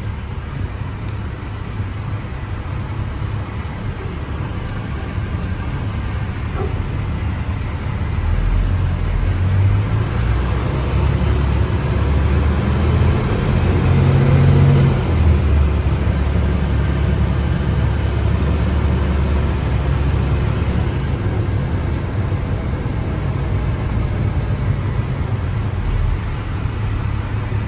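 A 2011 International Workstar 7300 bucket truck's diesel engine and drivetrain heard from inside the cab as the truck drives at low speed. The engine grows louder about eight seconds in, peaks with a rising pull about halfway through, then settles to a steady run.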